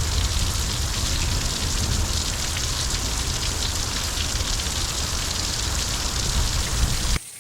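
Heavy thunderstorm downpour, rain pouring steadily with a deep low rumble underneath. A little before the end the sound drops suddenly to much quieter rain.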